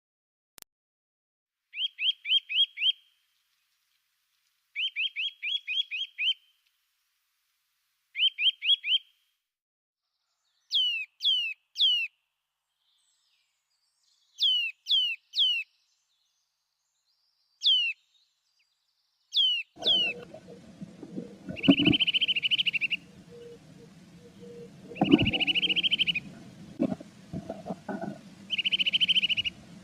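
Blue tit calls: short fast trills of notes and groups of three down-slurred high notes, then from about two-thirds through, three buzzy churring trills over low thumps and rustling.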